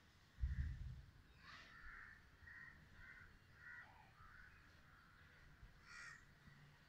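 Faint bird calls, a string of short calls repeated every half second or so. A brief low rumble on the microphone about half a second in is the loudest moment.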